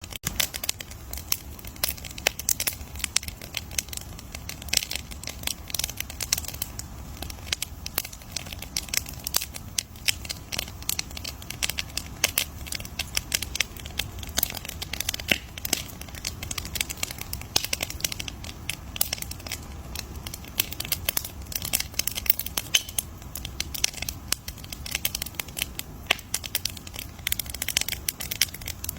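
Wood bonfire crackling: a dense, irregular run of sharp pops and snaps over a low steady rumble.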